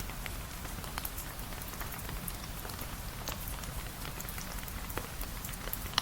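Steady rain falling, an even hiss with scattered sharp drips and ticks at irregular moments.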